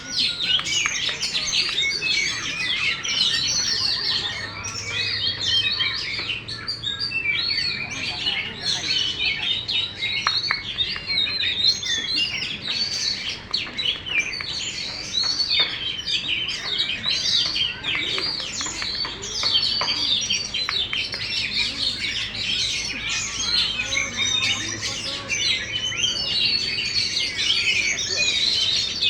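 Oriental magpie-robin singing a continuous, varied song of rapid whistles and chirps without a break.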